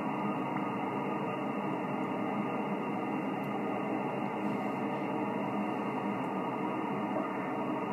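Steady hiss of band noise from an HF receiver, such as a Yaesu FT-1000MP, tuned to an idle 20-metre single-sideband frequency (14.200 MHz) with no station transmitting.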